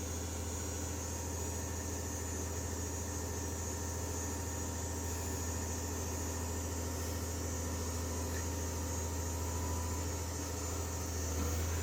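Caterpillar 320D hydraulic excavator's diesel engine running steadily, a constant low drone with no revving or breaks.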